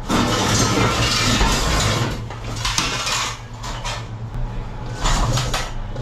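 Loose metal parts clattering and scraping against each other as they are handled and moved: a sudden run of clanking for about two seconds, then two shorter bursts of clatter.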